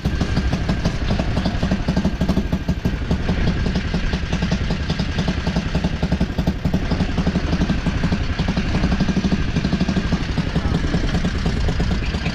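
Motorcycle engine idling with a steady, rapid low pulsing.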